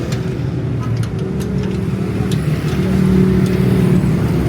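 Qingqi motorcycle-rickshaw engine running steadily, its note rising slightly about two-thirds of the way through, with a few light ticks over it.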